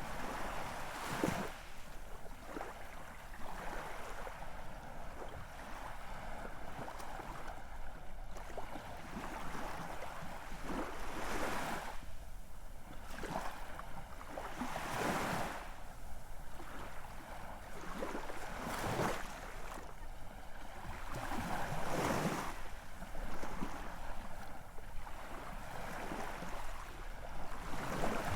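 Ocean waves breaking and washing in, one surge every three to four seconds over a constant rush of surf.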